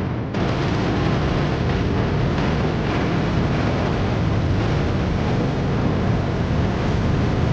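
Steady rushing noise of wind and road traffic while travelling along a road in a vehicle.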